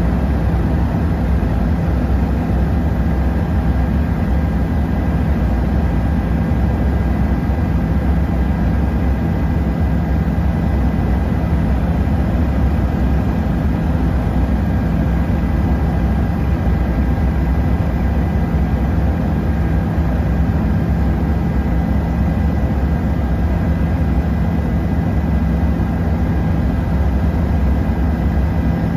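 Helicopter in flight, heard from inside the cabin: a steady, loud rotor and engine drone with a thin high whine over it.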